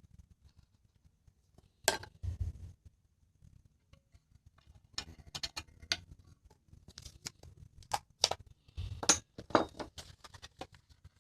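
Irregular clicks, taps and clattering knocks of small hard objects being handled and set down. The loudest clatter comes about 2 s in and again about 9 s in, with a busy run of taps in between.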